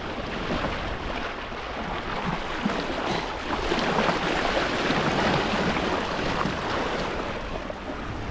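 Water swishing and washing along the hull of a sailing yacht under sail in light wind, steady and swelling a little about halfway through, with some wind on the microphone.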